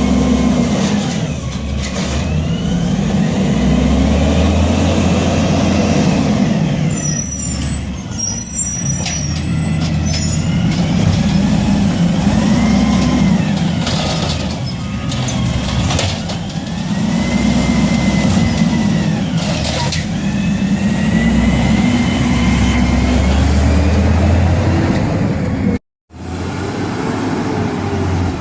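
Refuse truck's diesel engine revving up and falling back in repeated swells every few seconds, with air-brake hiss and high squeals about a third of the way through.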